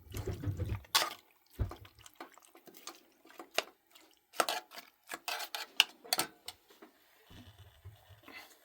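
Cooking pots, dishes and utensils clinking and knocking in a scattered run of short clicks as food is prepared, with some water sound among them.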